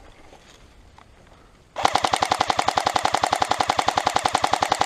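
Airsoft M16 electric rifle firing one long full-auto burst, a rapid, even rattle of shots, which starts about two seconds in and runs on through the end.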